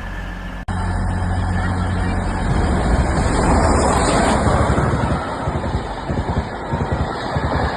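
A train passing close by at speed: a loud rush of noise that swells, then a fast rhythmic clatter that sets in about five seconds in.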